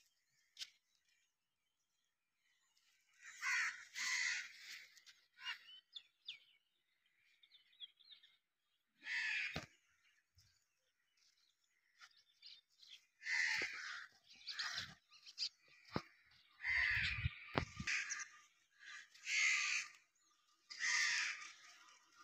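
Crows cawing repeatedly, harsh calls of about half a second to a second each, coming every second or few seconds. A few low bumps sound about two-thirds of the way in.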